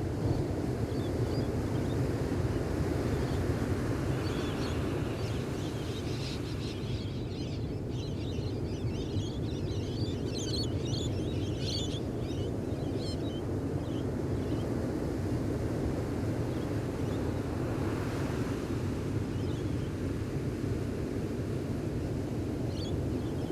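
Gentle ocean waves washing on a beach in a steady low rush, with small birds chirping in quick high notes, busiest from a few seconds in to about the middle and again briefly near the end.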